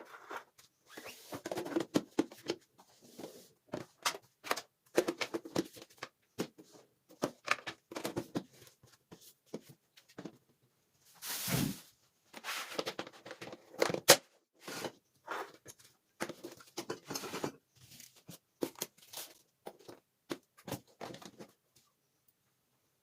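Household items being handled indoors: irregular rustling and light knocks and clicks, with a longer rustle about eleven seconds in and a sharp click about three seconds later.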